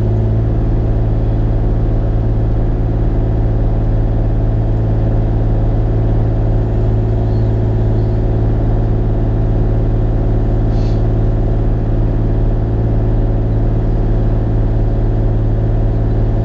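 Bobcat E35i mini excavator's diesel engine running at a steady speed, a constant low hum heard from inside the operator's cab.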